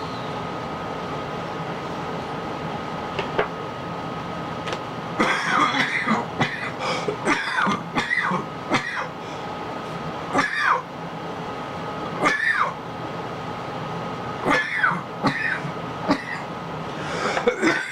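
A man coughing in repeated fits after inhaling cannabis smoke. The coughing starts about five seconds in and returns every second or two, over a steady background hum with a faint high whine.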